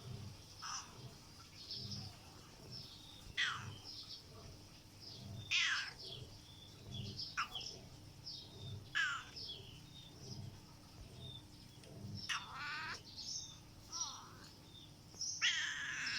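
Stray cat meowing again and again, about seven falling meows a second or two apart, the last one near the end the longest and loudest.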